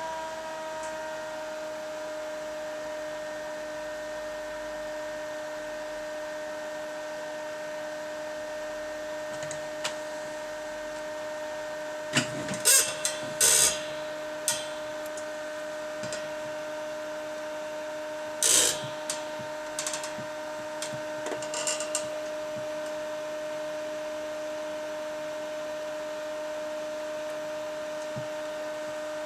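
A steady whine, its pitch sliding down slightly at the start before holding level. It is broken by a cluster of sharp clicks and knocks in the middle, with one more knock about 18 seconds in.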